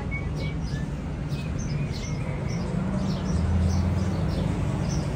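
Birds chirping over and over in short, quick high notes, over a steady low traffic rumble that swells for a second or two about three seconds in.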